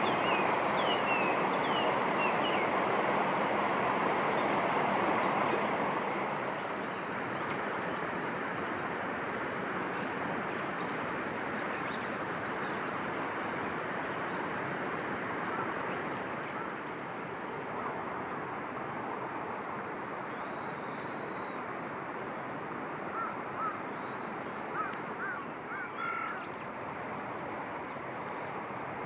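Short bird calls, a few quick chirps near the start and a cluster of calls about three-quarters of the way through, over a steady rushing outdoor background noise that is louder for the first six seconds.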